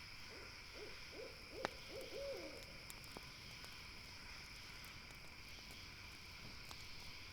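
Campfire crackling with scattered sharp pops, the loudest about a second and a half in, over a steady high night-insect hum. In the first couple of seconds an owl gives a quick series of short hooting calls.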